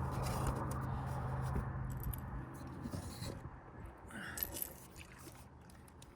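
Light scraping and small clicks of fishing gear being handled, over a low steady hum that stops about two and a half seconds in.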